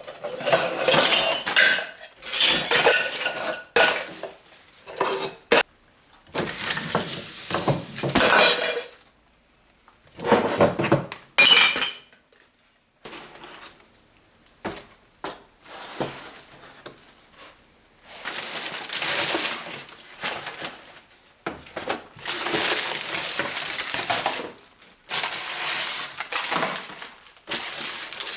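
Glassware and dishes clinking and clattering as they are picked up and set down, in irregular bursts, loudest over the first twelve seconds and lighter after that.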